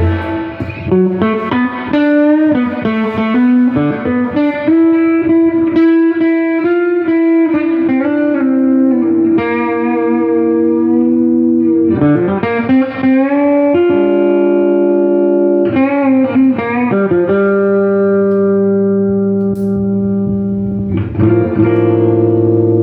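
Electric guitar, a Gibson SG Standard, played through a 1968 Fender Super Reverb tube amp with its reverb switched on. Single-note lines for the first half, then held chords left ringing.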